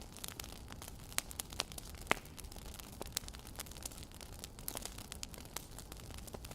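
Wood fire crackling: irregular sharp pops and snaps over a faint steady hiss, with one louder pop about two seconds in.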